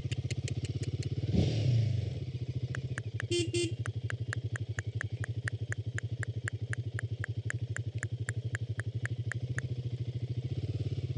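Royal Enfield Himalayan 452's single-cylinder engine idling steadily, with a brief louder swell about a second and a half in. A quick regular run of sharp ticks, about four a second, sounds over it through most of the middle.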